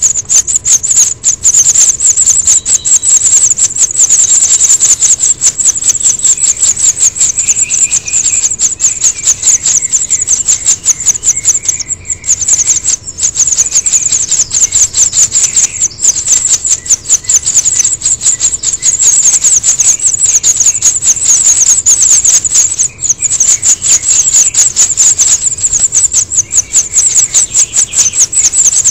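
House finch nestlings begging for food: a fast, continuous, high-pitched chatter of calls that runs on without a break.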